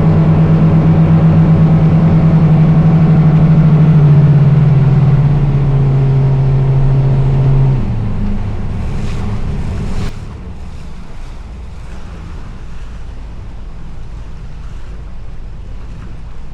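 Towboat engine running hard under load while it pulls a grounded sailboat off the shallows. Its note drops in pitch about four seconds in, and the engine is throttled back around eight seconds in, leaving wind and water noise.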